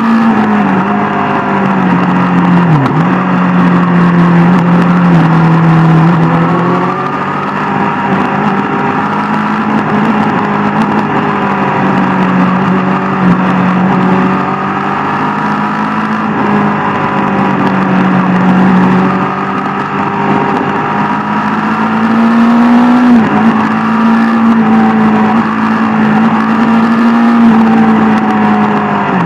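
Sport motorcycle engine running hard under way, its note holding, then rising and falling in steps as the throttle and gears change, with brief dips about three and twenty-three seconds in. Wind and road noise run under it.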